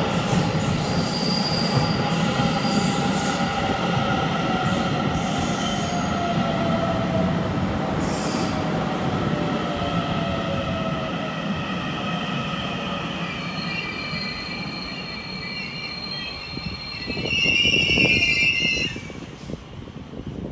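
Taiwan Railway train rolling along the track with its wheels squealing, several thin squeal tones slowly falling in pitch over a steady rumble that gradually eases off. Near the end a brief, louder high-pitched squeal rises over it.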